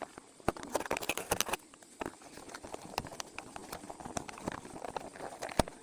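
A series of irregular sharp clicks and taps, a quick cluster about a second in, then scattered single taps, with one louder knock near the end.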